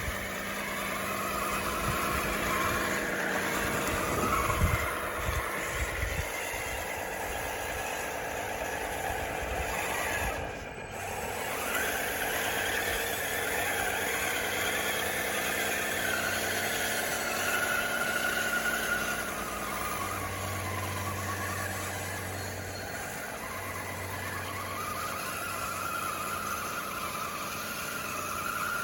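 DXR2 RC bulldozer running, its electric drive motors and gears whining and shifting in pitch as it works. There are a few low thuds a few seconds in.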